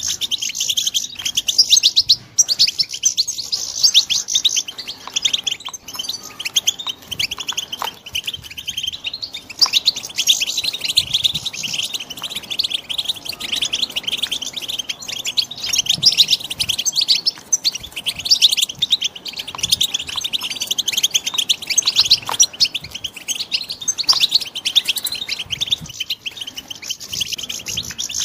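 Young European goldfinches singing: a continuous stream of rapid, high twittering chirps.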